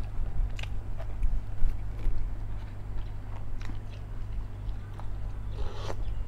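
A man chewing a mouthful of food, with small short mouth clicks at irregular intervals, over a steady low hum.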